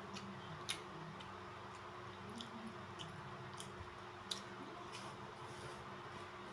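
Quiet eating by hand: soft chewing with scattered small clicks, the sharpest about a second in and again about four seconds in, over a faint steady hum.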